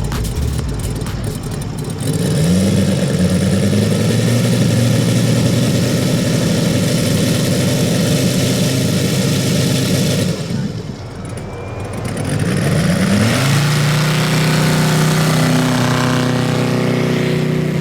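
Five-cylinder Valach R5-420 radial engine of a large-scale model airplane running. It revs up about two seconds in and holds, eases off briefly after about ten seconds, then revs up again and runs steadily.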